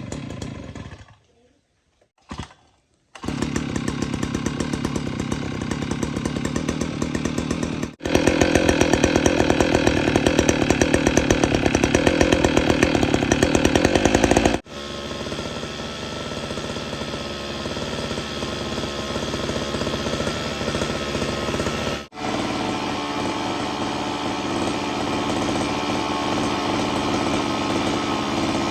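Small engine running with a fast pulsing beat, after two brief bursts near the start. It sets in about three seconds in, and its sound changes abruptly three times; it is loudest in the middle stretch.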